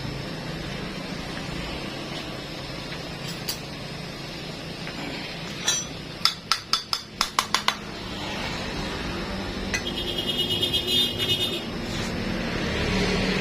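Metal tools and engine parts clinking on a workbench: a run of about eight sharp metallic clicks, then a fast, even run of ticks a few seconds later.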